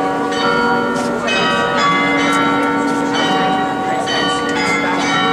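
Several large bells ringing together, struck over and over so that their long, ringing tones overlap in a continuous peal.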